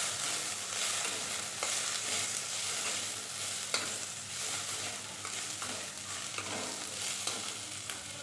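Chopped onion and tomato with garlic and ginger paste sizzling in oil in a pan, stirred with a metal spatula that scrapes and taps the pan a few times.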